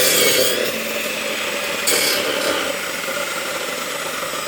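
Electric chainsaw running and cutting through a log, with a brief louder, harsher patch about two seconds in.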